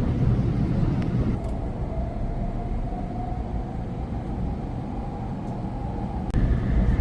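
Shinkansen bullet train running: a steady low rumble with a faint whine that slowly rises in pitch. The noise jumps suddenly louder about six seconds in.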